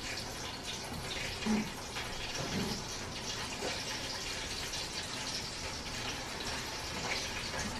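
Chicken pieces frying in hot grease, a steady sizzle.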